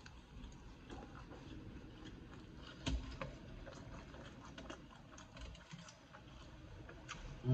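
Close-up chewing of a chopped cheese sandwich, full of small clicks, with crinkling from its paper wrapper and the aluminium foil being handled. A sharper click comes about three seconds in and a brief louder sound right at the end.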